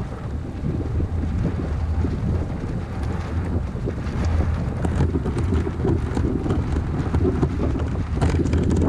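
Strong wind buffeting the microphone in a steady low rumble, with water splashing around a sailing kayak under way.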